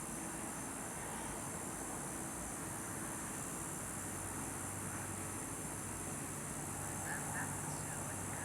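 Steady outdoor night background noise: a constant hiss with a faint low hum that grows a little stronger about halfway through, and a few faint short chirps near the end.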